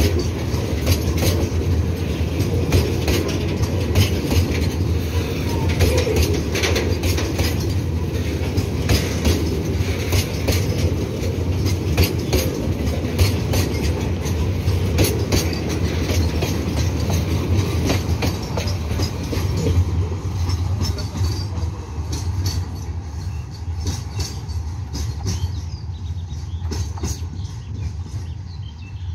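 Bogie oil tank wagons of a long freight train rolling past close by: a steady low rumble with the wheels clacking over rail joints. The clatter thins and fades over the last several seconds as the end of the train draws away.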